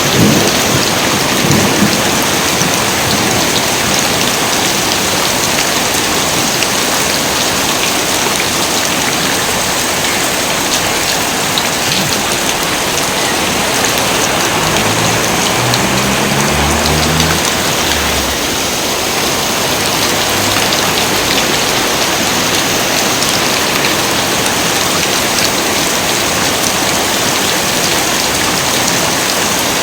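Heavy rain pouring steadily. A thunder rumble dies away in the first two seconds.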